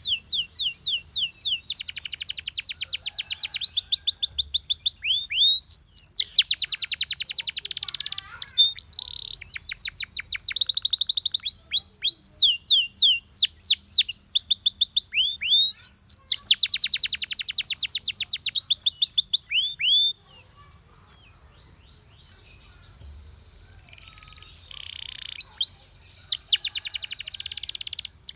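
Domestic canary singing: high-pitched rolled trills and runs of quickly repeated sweeping notes, switching from one phrase to the next every second or two. The song cuts off abruptly about two thirds of the way in, stays faint for a few seconds, then picks up again near the end.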